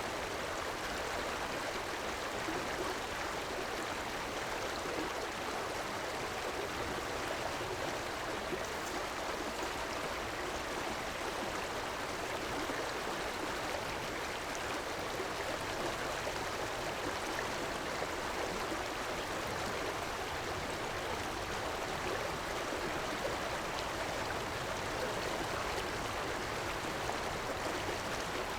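River water flowing over rocks: a steady, even rush and babble that stays the same throughout.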